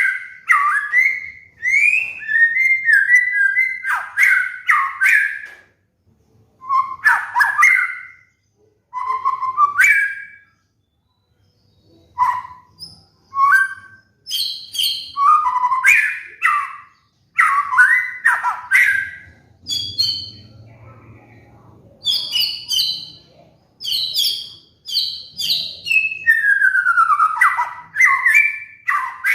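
White-rumped shama (murai batu) singing loud, varied whistled phrases that swoop up and down, in bursts with short pauses between them.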